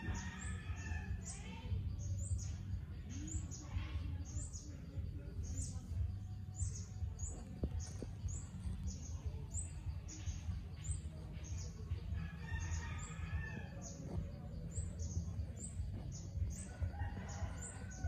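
Outdoor ambience: a bird chirping, short high chirps repeating evenly two or three times a second, over a steady low rumble. A few louder warbling calls come in at the start, about a third of the way in and near the end.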